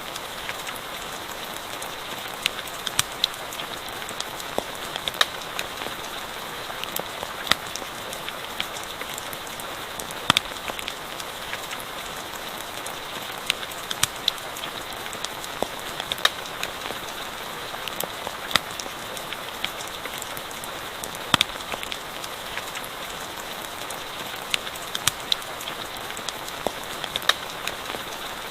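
Steady rain hissing, with a campfire crackling: sharp pops at irregular moments, some of them louder than the rain.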